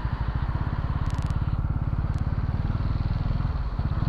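Motorcycle engine running steadily at low speed, its firing pulses even and rapid. A short clicking rattle about a second in and another single click just after two seconds.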